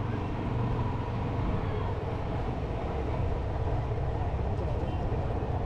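Motorcycle engine running steadily while riding, a constant low hum with road noise.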